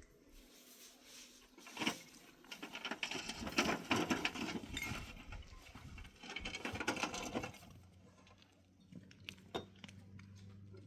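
Broom sweeping a floor: two long stretches of brushy scraping and rustling, with a few sharp knocks around them.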